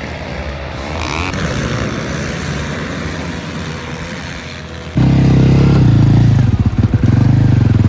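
Racing engines running, with a much louder engine cutting in suddenly about five seconds in and holding at high revs, with a few brief drops.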